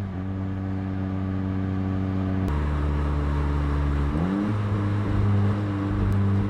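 2019 Volkswagen Jetta GLI's turbocharged 2.0-litre four-cylinder, heard through a Neuspeed stainless cat-back exhaust, running steadily at light throttle while driving. The exhaust note suddenly steps down in pitch about two and a half seconds in, then climbs quickly about four seconds in and holds steady.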